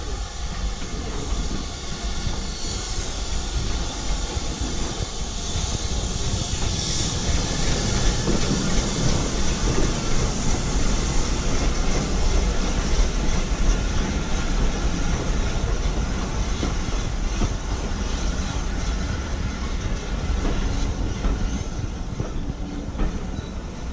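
A train running past on the rails, its wheels clattering over the rail joints. The sound builds over the first few seconds, stays loud, and eases near the end.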